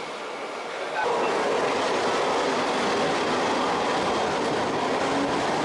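Mumbai suburban electric local train running on the rails, a steady noise with wheel clatter that jumps louder about a second in.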